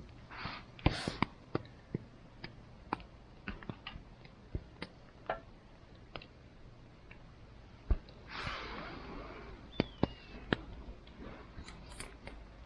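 Wood campfire crackling, with sharp irregular pops and snaps, a brief rushing hiss about eight seconds in and a short high falling whistle a couple of seconds later.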